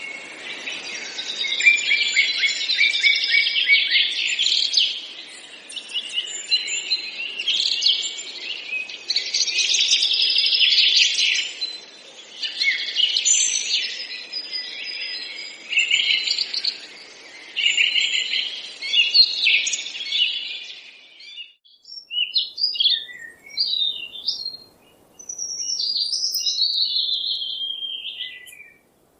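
Many small birds chirping and calling at once in a dense, chattering chorus, which thins after about twenty seconds to a few separate calls and whistles.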